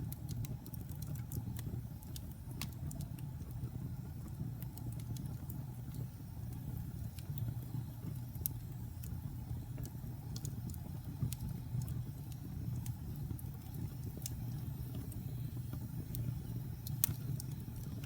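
Wood fire burning in a fireplace: a steady low roar of the flames with irregular crackles and snaps, a few sharper pops, the loudest near the end.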